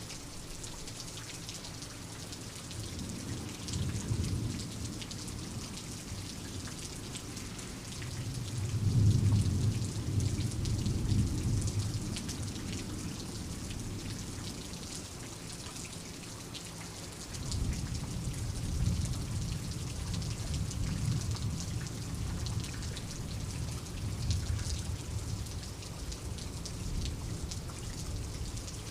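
Steady rain pattering, with thunder rumbling low under it: a short roll a few seconds in, the loudest roll about nine seconds in, and rolling rumbles again through the last eleven seconds or so.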